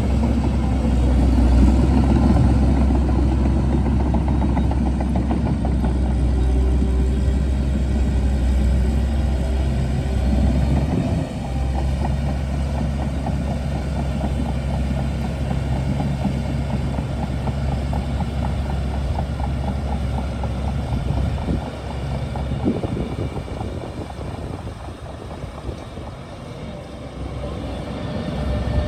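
Shantui DH17C2 bulldozer's diesel engine running under load, a steady low drone with rattling and clatter over it. It dips briefly about a third of the way in, eases off for a few seconds near the end, then picks up again.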